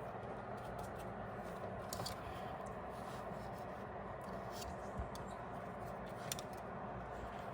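Light clicks and taps from handling small tools and wires during wire soldering work, a few scattered over a steady background hiss.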